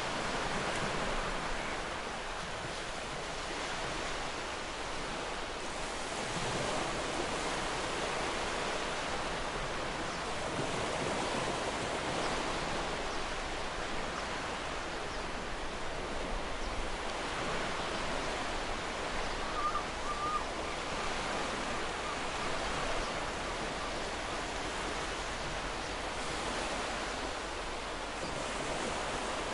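Ocean surf breaking on a beach: a steady wash of waves that swells and eases every few seconds.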